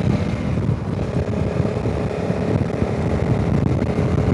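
Honda CRF300 Rally's single-cylinder engine running steadily while the bike is ridden, with wind noise on the microphone.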